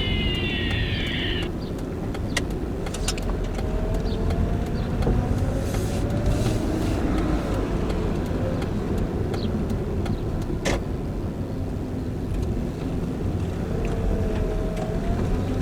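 Steady low rumble of a car on the move, with a high whine that cuts off about a second and a half in and a sharp click near the middle.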